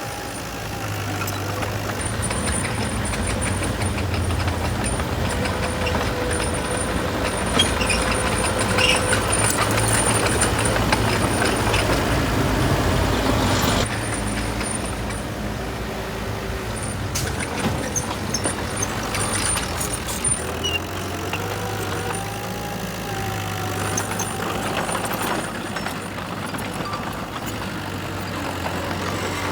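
Heavy diesel machinery running on a construction site, with a steady engine drone and occasional clicks and squeaks. The engine noise is louder for the first half and eases off about halfway through.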